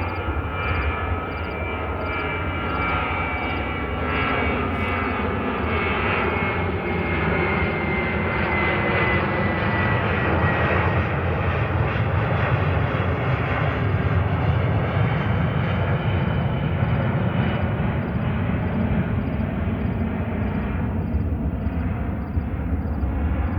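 Jet airliner passing by: a steady engine rumble that grows louder toward the middle, with a high engine whine sliding down in pitch as it goes past.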